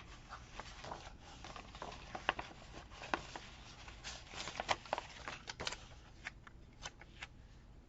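Sticker sheets and paper being handled at close range: a quiet scatter of light clicks, crinkles and rustles as stickers are peeled and pressed down, thinning out near the end.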